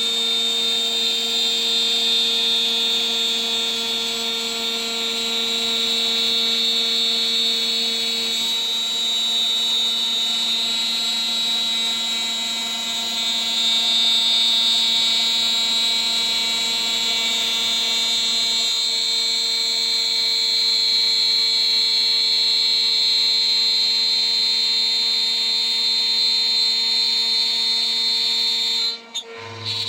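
DIY CNC router's spindle whining steadily at about 14000 rpm while a 3 mm three-flute end mill cuts the part. The tone shifts slightly a few times as the toolpath moves on, and near the end the sound drops out briefly before a low hum comes in.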